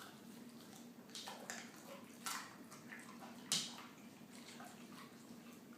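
A boxer dog chewing a raw carrot: a few sharp crunches, the loudest about three and a half seconds in.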